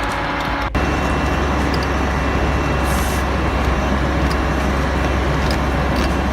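Heavy vehicle's engine running steadily with a deep rumble, broken by an abrupt cut about a second in.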